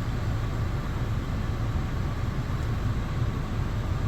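2004 Honda Accord idling, with the heater blower fan running steadily inside the cabin.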